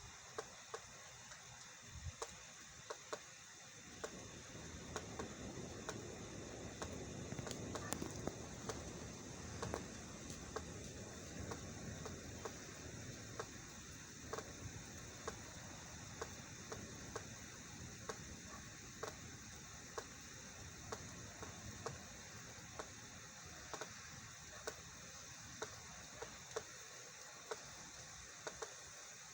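Rain with scattered sharp drops tapping, and a low rumble of thunder that builds about four seconds in and dies away about ten seconds later.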